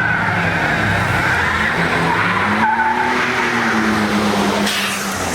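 Vehicle engine held at high revs with tyres skidding and squealing, as in a burnout. The engine note rises and then falls back about halfway through.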